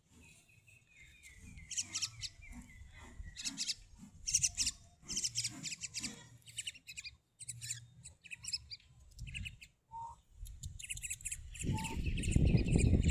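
Small pet bird chirping in a quick run of short, high chirps and clicks, with a thin held whistle in the first few seconds. A louder low rumble comes in near the end.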